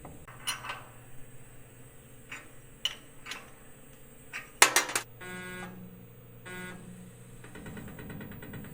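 Light metallic clicks and taps on the 4th axis rotary table being nudged and clamped into alignment on the mill table, with a cluster of sharp metal knocks about halfway through, the loudest sounds. Two short motor whines follow in the second half, then a buzzy rattle near the end.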